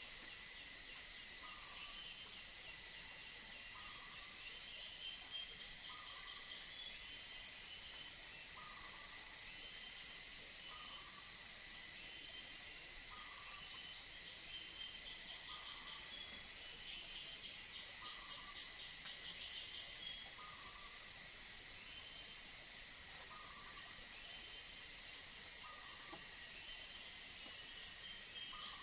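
Jungle insect chorus: a steady, high, shrill drone of crickets or cicadas, with a short lower call repeating every second or two and scattered chirps.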